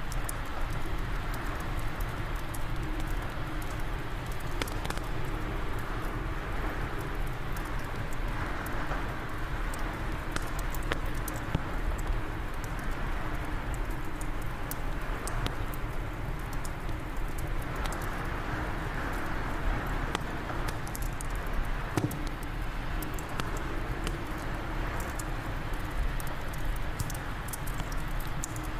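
Wood fire crackling in a fireplace, with sharp pops scattered throughout, over a steady rush of wind that swells now and then.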